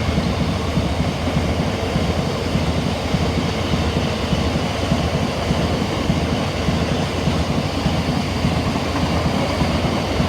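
A freight train hauled by a Class 66 diesel locomotive rolling past at close range: a steady, loud rumble of wagon wheels on the rails, with rapid irregular knocks.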